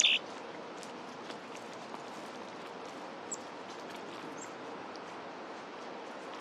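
Wild bird calls: one short, louder call right at the start, then a few faint, very high chirps over a steady outdoor hiss.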